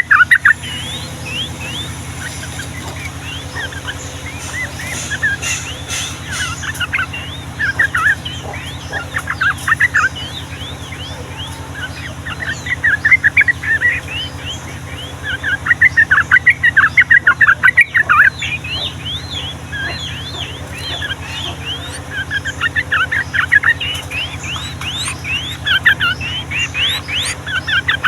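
Sooty-headed bulbuls singing in long rolling bursts of quick, sweeping notes, with several loud bursts and softer chatter between them. A steady low hum runs underneath.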